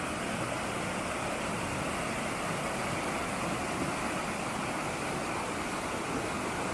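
A steady, even rushing noise without breaks or distinct events.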